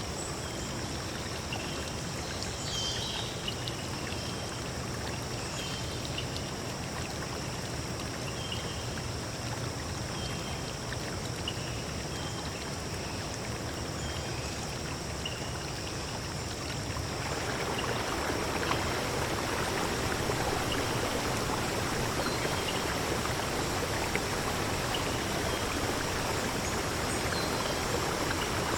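Running water of a stream or waterfall, a steady rush, with short repeated bird chirps over it during the first half. About seventeen seconds in the water grows louder and the chirps fade into it.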